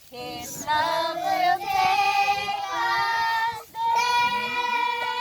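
A child singing a melody unaccompanied, with a brief break about three and a half seconds in and then one long held note.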